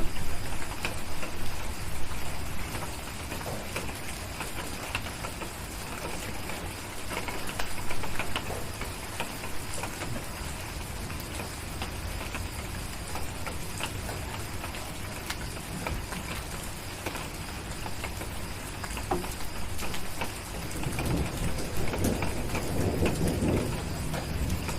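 Steady rain with scattered sharp crackles from a wood fire, and a low rumble of distant thunder swelling about 21 seconds in.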